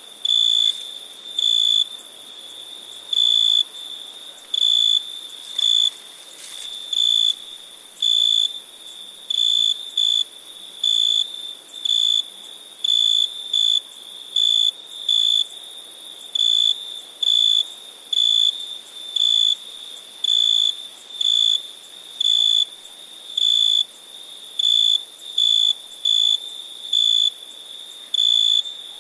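Crickets chirping: a steady high trill, with one close insect giving short loud chirps about once a second, over a faint hiss of more insects higher up.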